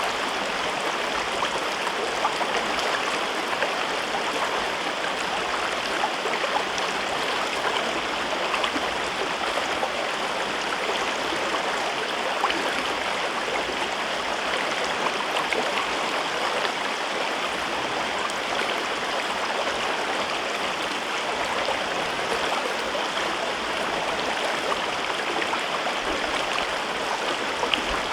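River water rushing and babbling over the rocks of a gorge, a steady even flow with small splashes and gurgles throughout.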